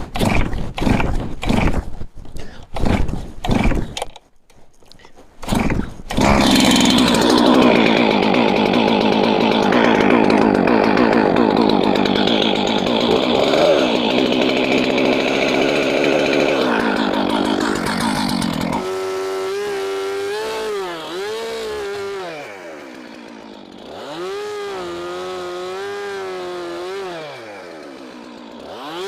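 Stihl MS 441 two-stroke chainsaw: a run of short bursts of engine noise over the first six seconds, then the saw running at full throttle, cutting firewood lengths from slab wood. At about nineteen seconds it comes out of the cut and keeps running freely, the engine note dropping sharply and coming back up twice as the throttle is let off and squeezed again.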